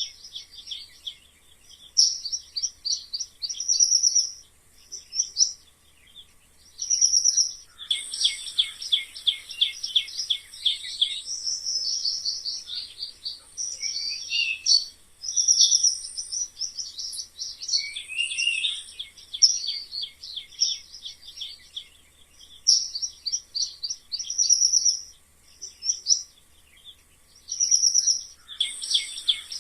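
Mice squeaking: runs of rapid, short, high-pitched squeaks in bursts of a second or two, with short pauses between them.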